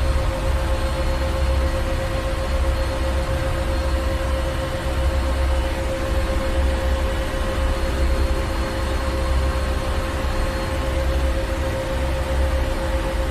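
Ship engine room: a large engine running with a deep, slowly pulsing rumble, a steady hum and broad machinery noise.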